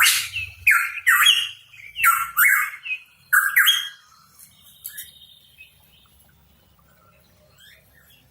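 Pitohui giving a quick series of loud, harsh calls, about six in the first four seconds, then only a few faint, scattered calls.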